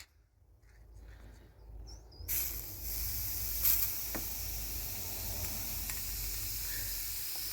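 Aerosol spray paint can spraying in one long steady hiss that starts about two seconds in; the can is running out of paint.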